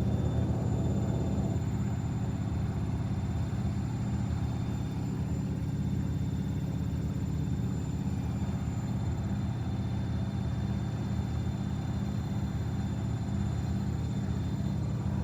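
Washing machine drum spinning with a steady low motor hum, water being spun out through the holes in the drum.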